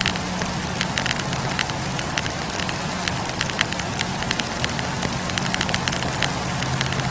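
Wood fire burning, with frequent sharp, irregular crackles of the logs over a steady hiss and a low steady hum underneath.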